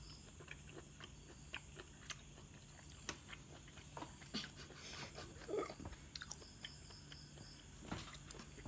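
Faint chewing of a mouthful of medium-rare beef steak, which feels tough to the eater, with scattered small clicks and taps.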